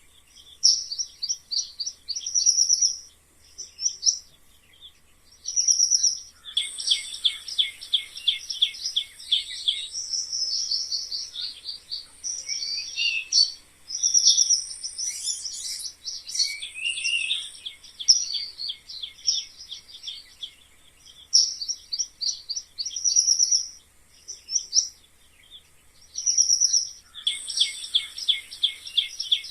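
Mice squeaking: rapid runs of high-pitched chirping squeaks in bursts of a second or two, with short gaps between and a few quick sliding notes.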